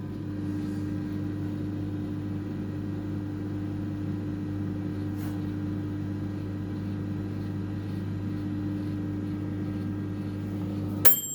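Microwave oven running on full power: a steady electrical hum that cuts off suddenly near the end, with a click and a short high beep.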